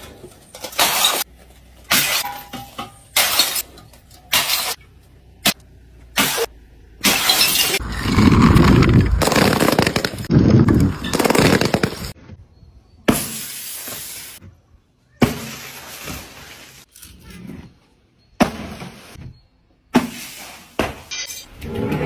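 Glass bottles smashing one after another, sharp breaks with shattering glass, in short separate takes that cut off abruptly. Several seconds of louder, heavier crushing and crunching come in the middle.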